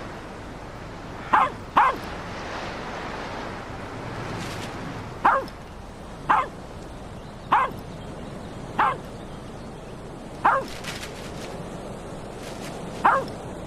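A dog barks eight times, single sharp barks, the first two close together, then the rest spaced out one every second or two. Under them is a steady rush of wind.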